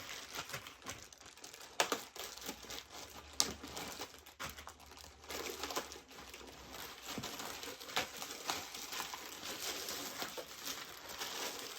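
Packaging crinkling and rustling as it is cut and pulled open with scissors, with a few sharp clicks and snips along the way.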